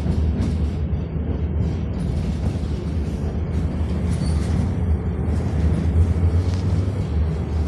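Tatra T6B5SU tram running along its rails: a steady low rumble.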